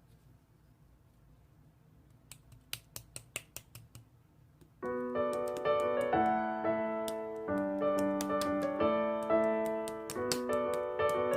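Slime being handled, making a quick run of sharp clicks and pops, then solo piano music starts about five seconds in, with a few more slime clicks over it.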